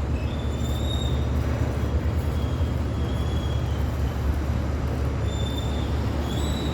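Heavy road traffic of cars and trucks: a steady low engine rumble, with several brief high squeals over it.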